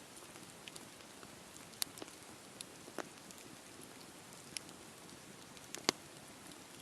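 Wood campfire burning: a soft steady hiss with scattered sharp pops and crackles from the burning wood, the loudest pop near the end.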